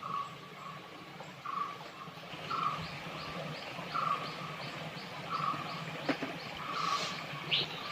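Birds calling: a short note repeats about every second and a half while a quicker run of high ticks, about three a second, sounds through the middle. Steady river noise runs underneath.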